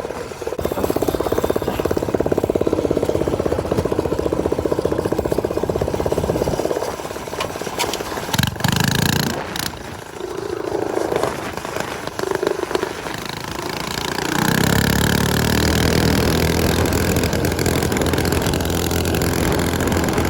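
Small motorcycle engines running during a ride, the engine speed changing over the first half. In the last third a steady, lower engine note takes over.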